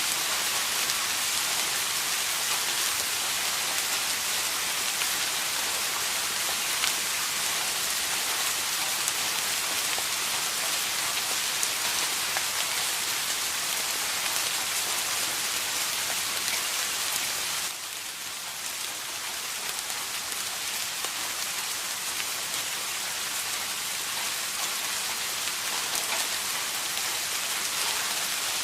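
Steady rain falling, a dense hiss with scattered drop ticks. About two-thirds of the way through it suddenly gets quieter, then slowly builds back up.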